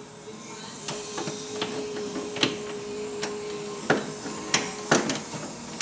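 Air tool running on a VW Rabbit engine-mount bolt: a steady whine from about a second in to nearly four seconds, with sharp metallic clanks throughout, the loudest near the end.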